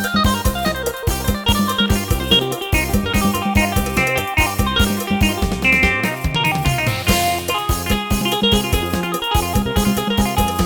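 Yamaha PSR-1000 arranger keyboard playing a Thai lai hae procession tune: a plucked, guitar-like melody over a steady drum-kit accompaniment, with a short pitch sweep in the low notes near the middle and a cymbal crash about seven seconds in.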